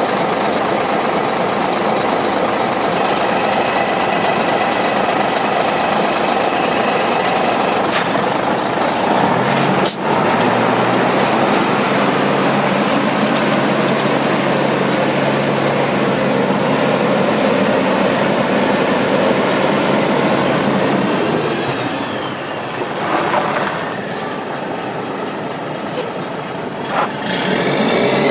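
Mack CH613 day cab tractor's diesel engine running with a steady, loud mechanical noise. It gets quieter for a few seconds about two-thirds of the way through, then comes back up near the end.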